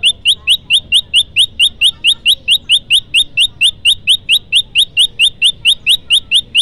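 Prenjak lumut call: a fast, even series of short, high, upward-sweeping chip notes, about four to five a second, repeated without a break.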